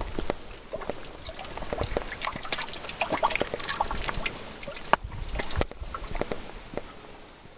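Rainwater trickling and dripping, with many irregular close taps and splashes that thin out near the end.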